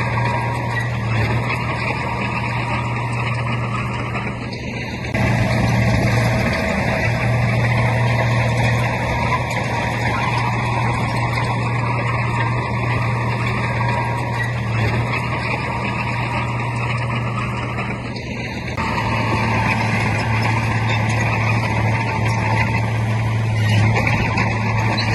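Heavy diesel earthmoving machinery running hard with a steady low engine hum, growing louder about five seconds in and easing briefly before picking up again near the three-quarter mark.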